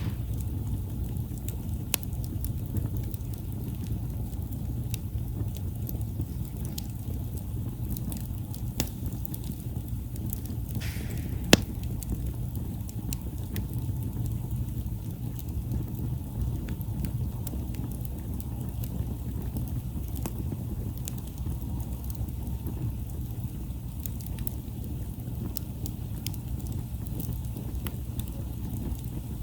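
Wood campfire crackling: scattered sharp pops over a steady low rumble, with one louder pop about twelve seconds in.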